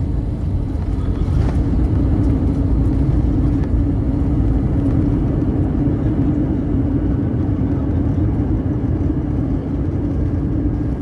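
Steady, loud rumble of an Airbus A321's engines and airflow heard inside the passenger cabin, with a constant low hum.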